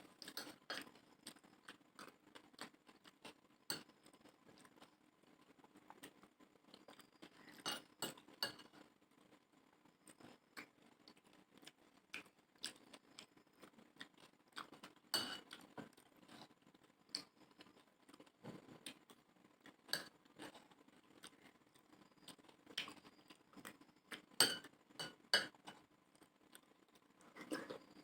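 Spoon clinking and scraping against a plate of chotpoti in irregular light clicks as it is eaten.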